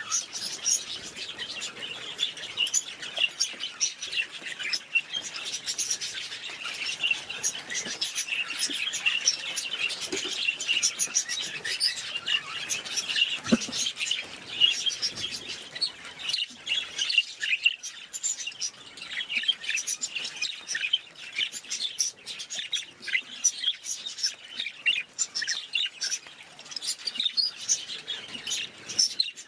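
A flock of budgerigars chattering: many quick, overlapping high chirps and warbles without a pause.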